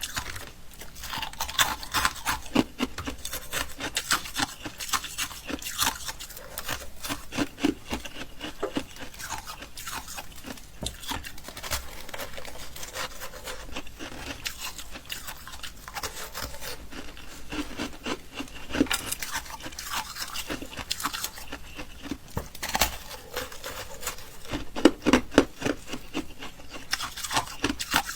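Close-miked crunching and chewing of ice: a dense run of crisp cracks and crackles, with louder bites every few seconds.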